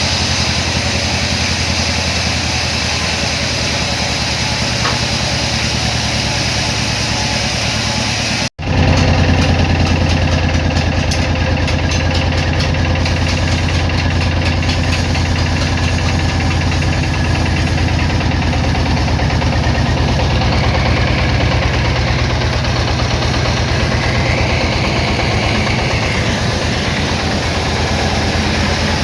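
An engine running steadily. About eight and a half seconds in the sound cuts out for an instant and comes back louder.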